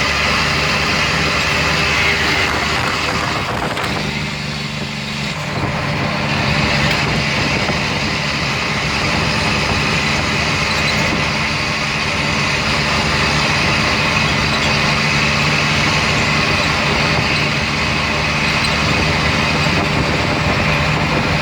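Diesel engine of a 2004 Mack Granite dump truck running steadily. About four seconds in, the higher noise briefly drops away and a steady low hum takes over for about a second and a half before the usual running sound returns.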